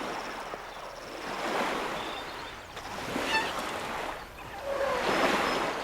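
Water splashing and sloshing as elephants play in a river. It swells and fades three times.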